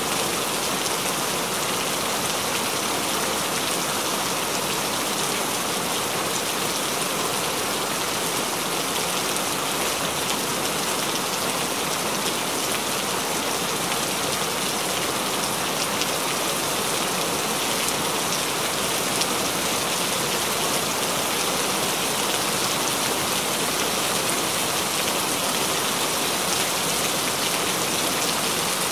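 Rain falling steadily: an even hiss dotted with fine drop ticks.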